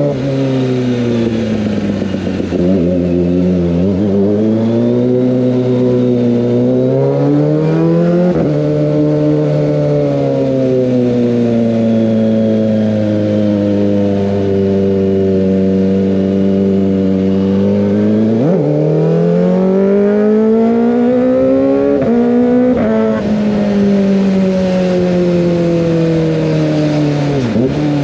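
Kawasaki ZX-25R 250 cc inline-four engine through an Over Racing GP-RS full-system aftermarket exhaust, heard from the rider's seat while riding. The revs rise and fall several times, with about four quick, sharp jumps in pitch.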